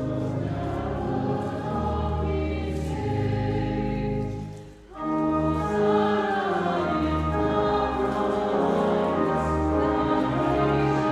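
Choir singing a hymn over sustained low accompaniment, with a brief break between phrases about five seconds in.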